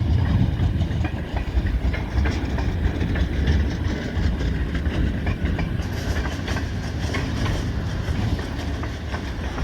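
Freight train of loaded log cars rolling slowly past, steel wheels clacking over the rails with a steady low rumble.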